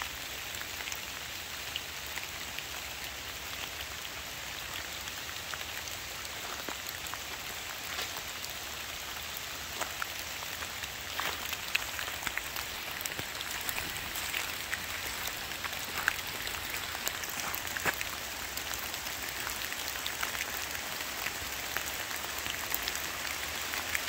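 Steady rain falling through woodland. It is an even hiss with scattered sharp ticks of single drops, and the ticks come more often and a little louder in the second half.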